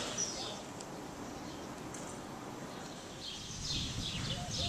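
Small birds chirping: a few chirps at the start and a cluster of chirps in the last second and a half. Underneath is a low, steady hum of outdoor background noise.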